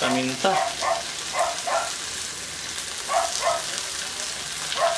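Vegetables sizzling steadily in hot oil in a wok. Over the sizzle come about six short, sharp animal calls, mostly in quick pairs.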